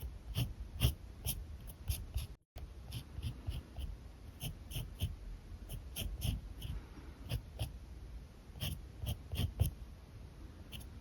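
Alcohol marker tips stroking and scratching across paper in quick repeated strokes, about two or three a second. A brief dropout comes about two and a half seconds in.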